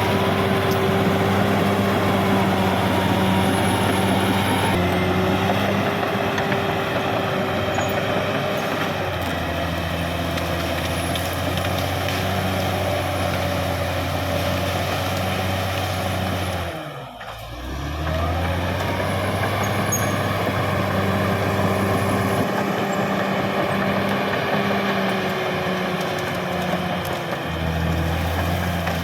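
Heavy diesel engine of a crawler bulldozer running steadily at working revs. About two-thirds through, it briefly drops in pitch and loudness, then picks back up.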